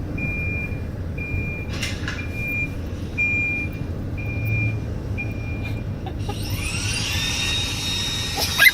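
Roomba robot vacuum beeping: one high beep repeated evenly, about every 0.8 s, seven times, over a low motor hum. From about six seconds in, rising electronic tones sweep up and settle on a steady high tone, and there is a sharp knock just before the end.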